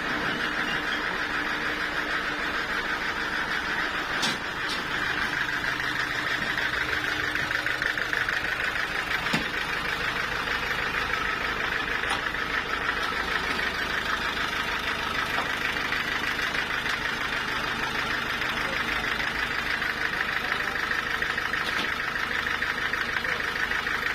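Portable sawmill running steadily: its engine drones under a constant high whine from the saw, with a couple of faint clicks.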